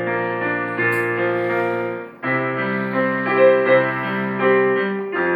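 Keyboard playing held piano chords as an instrumental interlude between worship songs, with a short break and a new chord about two seconds in.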